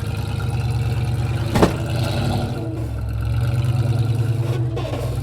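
Off-road 4x4 truck engine running steadily at low speed as it crawls over rocks, pulling a little harder in the second half. A single sharp knock about one and a half seconds in.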